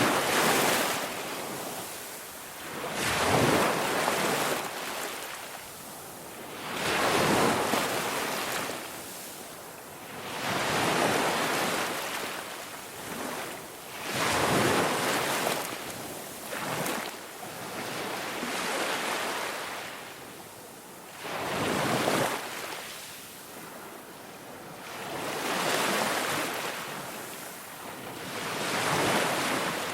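Ocean waves washing onto a shore, each wave swelling and fading roughly every three to four seconds.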